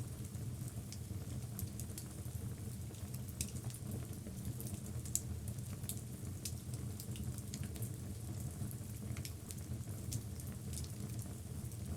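Wood logs burning in a fireplace: a steady low rumble of flame with frequent small crackles and pops, one sharper pop about five seconds in.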